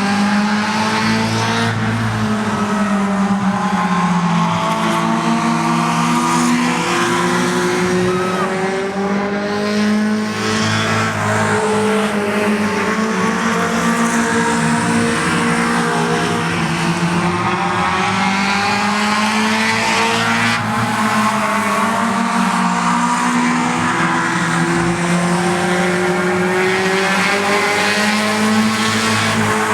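A pack of race car engines running on a dirt oval, several at once. Their pitch rises and falls in repeating swells as the cars lift off for the turns and accelerate down the straights.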